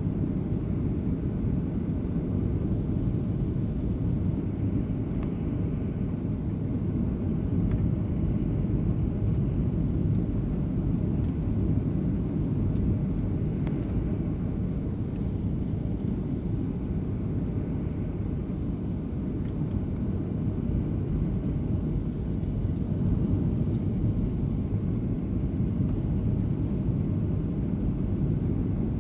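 Airliner cabin noise on final approach: a steady low rumble of the jet engines and airflow, heard from inside the cabin.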